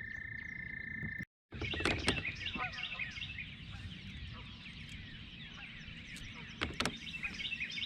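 A frog trills on one steady high note for about the first second. After a brief dropout to silence, many birds chirp and sing, their short calls overlapping densely.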